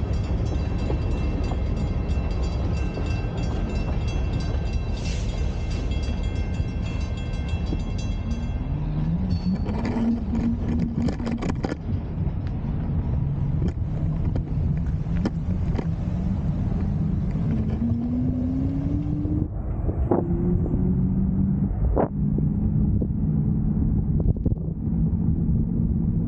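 A train passing a road crossing: a steady low rumble, with a high ringing tone over it for the first eight seconds or so. Engine sounds rise in pitch about nine seconds in and again later, with a few sharp clanks.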